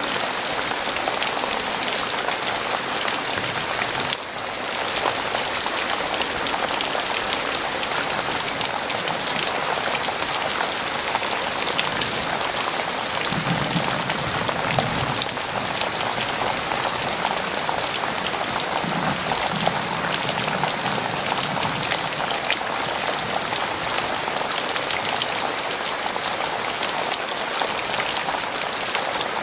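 Heavy rain falling steadily, a dense even patter of drops, with brief dips in level about four and fifteen seconds in.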